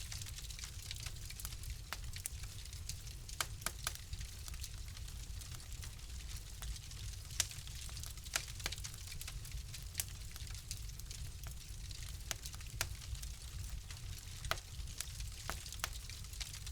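Wood fire in a fireplace crackling: irregular sharp pops and snaps, a few louder than the rest, over a low steady rumble and a soft hiss.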